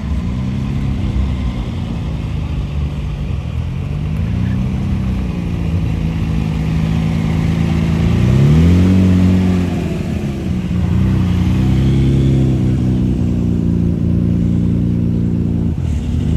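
Car engine idling and being revved in short blips, its pitch rising and falling about four times, with the loudest rev about halfway through.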